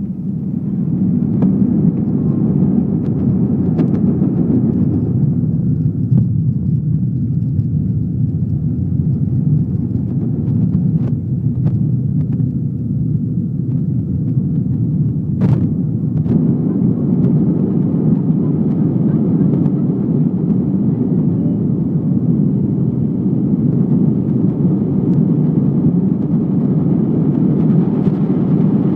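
Steady low rumble of an Airbus A320's jet engines and airflow heard from inside the cabin during the climb after take-off, with a few light clicks and one sharper click about halfway through.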